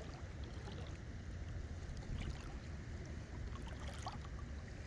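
Shallow seawater sloshing around the legs of someone wading, with light splashes about two and four seconds in, over a steady low rumble.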